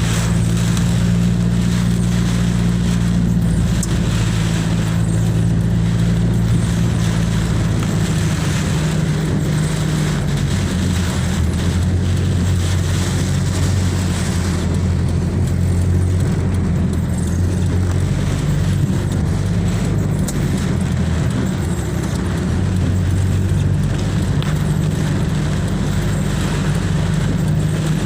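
Car engine running steadily under a constant noisy hiss, its low hum dropping in pitch about ten seconds in and rising again near the end.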